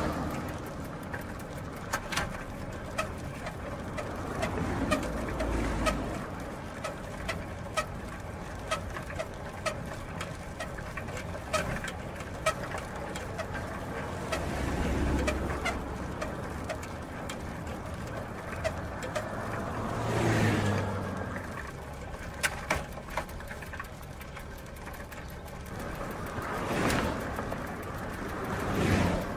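Bicycle drivetrain and spinning wheel: a run of irregular sharp clicks and ticks over a steady whir, with a few louder swells every several seconds.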